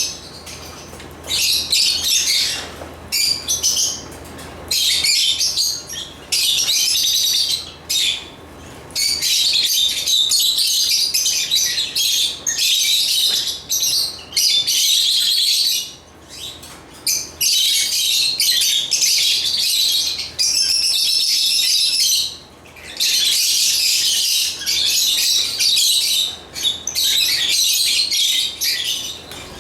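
African lovebirds chirping and twittering in rapid, high-pitched runs that stop and start every few seconds.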